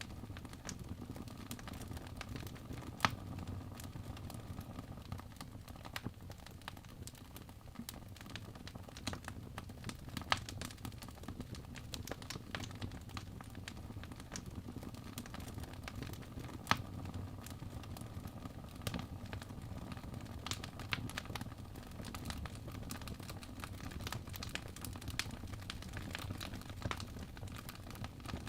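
Birch logs burning in a fireplace, with a steady low rumble of flame and frequent irregular sharp crackles and pops, a few of them louder, about 3, 10 and 17 seconds in.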